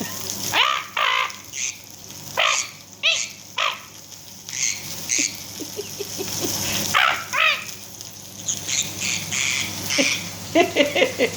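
Conure parrot chattering and squawking: a string of short calls with quick pitch sweeps, then a faster run of chatter near the end.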